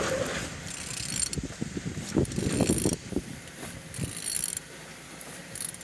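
Opel A16XER 1.6-litre four-cylinder petrol engine being turned over by hand, giving irregular mechanical clicks and clatter. It turns freely, a check that the engine is not seized.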